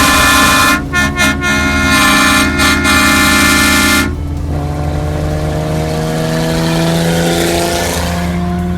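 A Hornblaster Shocker XL four-trumpet air train horn blasting a loud, steady multi-note chord, with a few short breaks, then cutting off about four seconds in. After that a vehicle engine runs with its pitch rising slowly.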